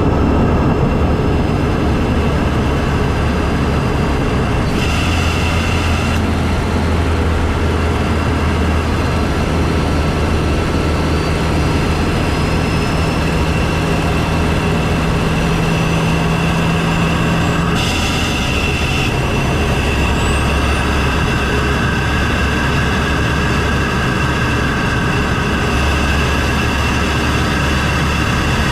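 Volkswagen MK7 GTI's turbocharged 2.0-litre four-cylinder heard from inside the engine bay through a CTS cold air intake, running steadily while driving: a constant engine and intake rush with a low drone that shifts a few times, and a faint whine slowly rising in pitch.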